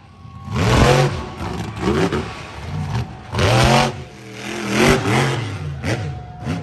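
Monster truck engine revving hard in repeated bursts, three big surges in pitch and loudness that drop back in between.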